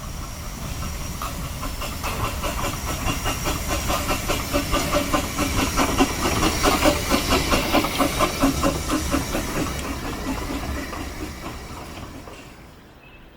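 Narrow-gauge steam locomotive passing with its train, a quick rhythmic beat over a hiss of steam. It grows louder to a peak around the middle, then fades away.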